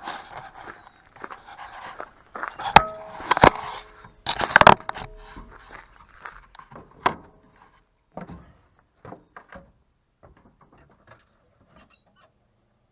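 Metal clanks and sharp knocks from handling and fitting a mini excavator's hitch assembly. The loudest strikes come a few seconds in, two of them leaving a short metallic ring, then they thin out to scattered light clicks.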